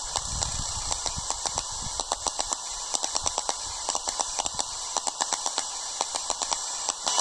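Radio receiver on the aviation band, giving out steady static hiss with frequent irregular clicks and crackles and no signal coming through.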